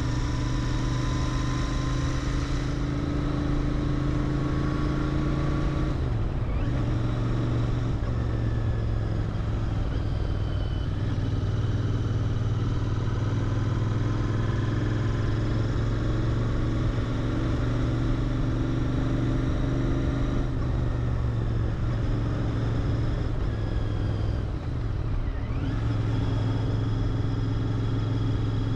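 Royal Enfield Interceptor 650's parallel-twin engine running through its stock mufflers while riding at a steady pace. The engine note changes a few times, about six seconds in, around twenty seconds and again near twenty-five seconds.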